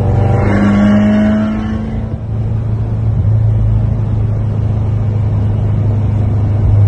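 ProCharger-supercharged V8 of a 2016 Corvette, heard from inside the cabin, pulling with a slightly rising tone for the first two seconds. It then drops back about two seconds in and settles into a steady drone while cruising.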